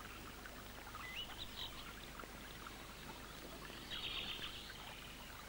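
Faint birdsong on a river: a few short high chirps, one rising, in the first couple of seconds and a brief trill about four seconds in, over a low steady hiss.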